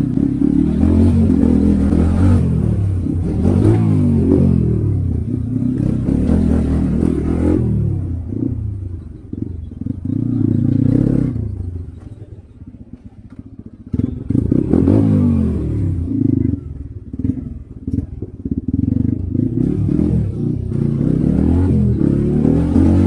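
Motorcycle engine accelerating through the gears, its pitch sweeping up again and again, then easing off and dropping quieter about halfway through before pulling away again.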